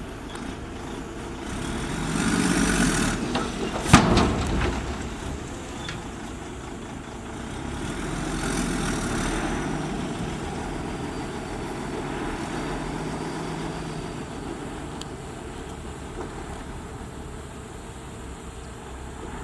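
Heavy road-building machinery running, its engine noise swelling twice, with a single sharp knock about four seconds in.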